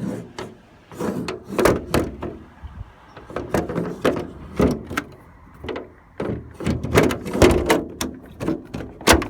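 Plastic blind and roof-vent fittings in a motorhome being slid and snapped shut: a busy series of knocks, clicks and rattles, with a sharp knock near the end.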